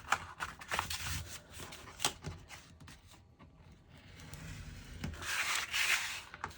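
Scored paper or cardstock being handled and folded along its score lines: a few light clicks and taps, then a rustling rub about five seconds in.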